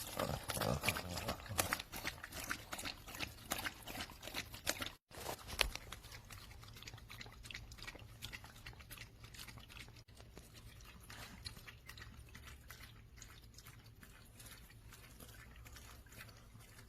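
A cat lapping water from a pet drinking fountain: a quick run of small wet licks, stronger in the first few seconds and softer afterwards, over a steady low hum.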